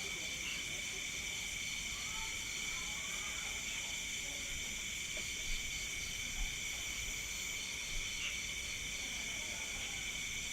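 Night-time insect chorus: steady overlapping trills at several pitches, one of them pulsing evenly. A couple of faint low knocks sound around the middle.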